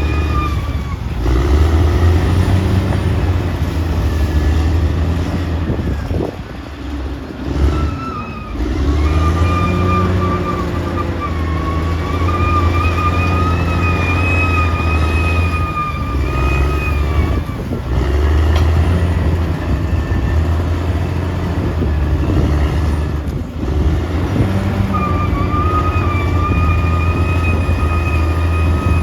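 Caterpillar D6R XL bulldozer at work: a steady low diesel drone with a wavering high whine over it. The whine drops out for a few seconds twice, and the engine sound dips briefly twice as the load changes.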